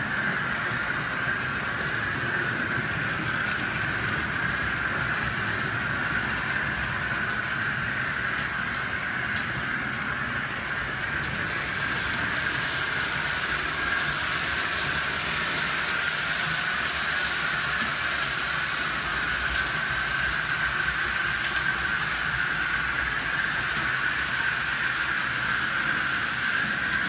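OO gauge model train running on the track, with a steady high whine that holds at an even level throughout.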